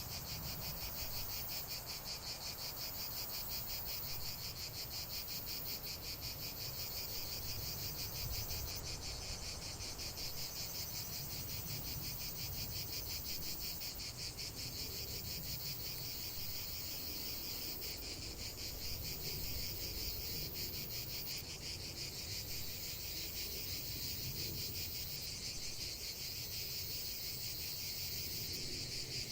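Crickets trilling without pause, a fast, even pulsing chorus high in pitch, over a low steady rumble.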